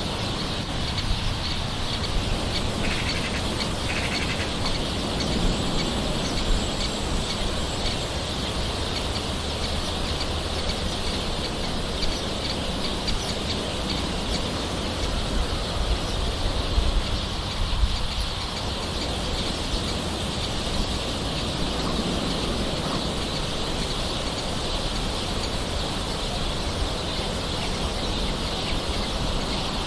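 Steady soft rain with birds calling over it.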